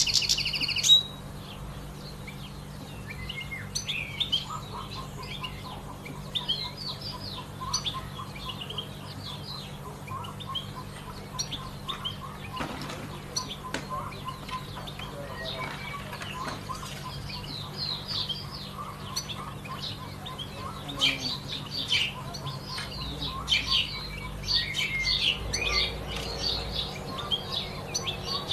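Many small birds chirping and twittering, with a loud, close bird call in the first second that stops about a second in, over a faint steady low hum.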